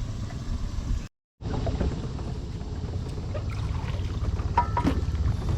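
Small boat's outboard motor running steadily at low speed, a low pulsing rumble. The sound drops out briefly about a second in.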